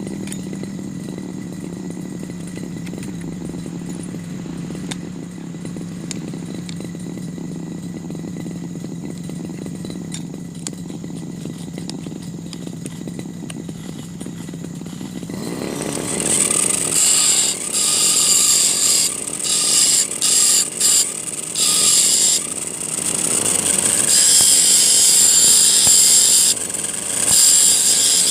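Brush cutter running steadily with a low hum. About halfway through, its spinning disc bites into the steel file and a loud, harsh metal-grinding noise starts, breaking off and resuming several times before running on steadily near the end.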